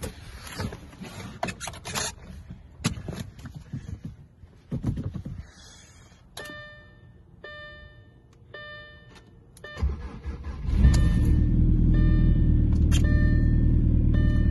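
Clicks and knocks, then the car's warning chime beeping repeatedly. About ten seconds in, a 2007 Audi A4 2.0T's turbocharged four-cylinder engine cranks, catches and runs steadily while the chime keeps beeping. This is a cold start of the engine after a cylinder-head overhaul and timing-belt job.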